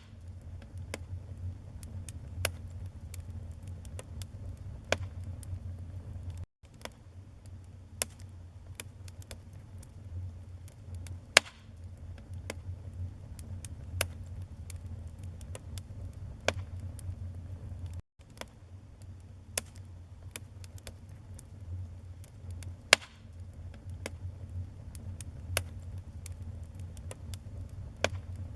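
Wood fire burning in a fireplace: a steady low rumble of flames under frequent sharp crackles and pops of burning wood, with two much louder pops about a third of the way in and again about four-fifths in. The sound cuts out for an instant twice.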